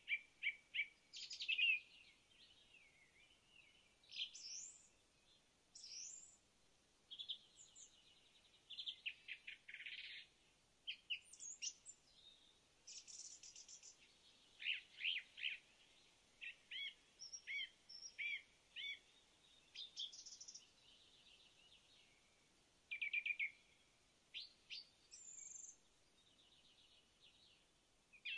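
Small forest birds calling and singing: a string of short chirps, quick trills and whistles, one after another, several different calls overlapping.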